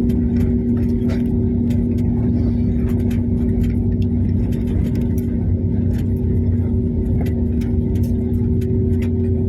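Airliner noise during a landing: a steady engine and airflow drone with a constant two-note hum, and faint irregular rattling clicks throughout.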